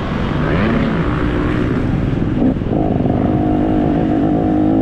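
Vehicle engine revving: the pitch rises and falls in the first couple of seconds, drops briefly, then holds steady at a higher pitch.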